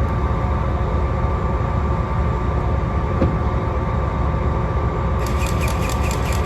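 An engine running steadily at idle as a low, constant rumble. Near the end a rapid run of sharp clicks comes in for about two seconds.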